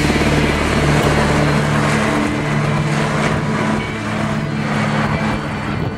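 Helicopter engine and rotor running steadily, a loud continuous drone with a fast pulsing beat.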